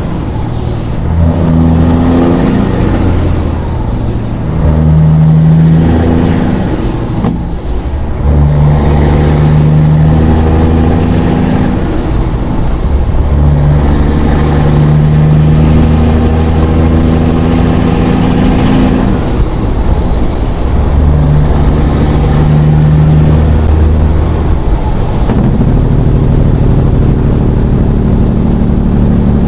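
Semi truck's diesel engine pulling hard and shifting up through the gears, its pitch dropping at each shift and climbing again. A turbo whistle spools up and falls away with each gear.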